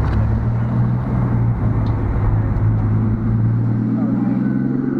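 Car engine running with a steady low hum, its pitch rising in the last second or two as it speeds up to drive off.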